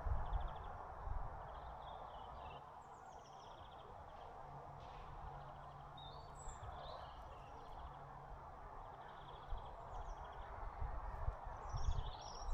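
Small songbirds chirping and twittering in short high calls and quick trills, over a steady outdoor background hiss. Low soft thumps come and go, more of them near the end.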